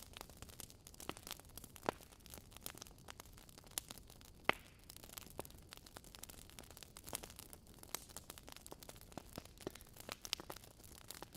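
Wood fire crackling in a fireplace: irregular sharp pops and snaps from the burning logs over a faint steady hiss, with one louder pop about four and a half seconds in.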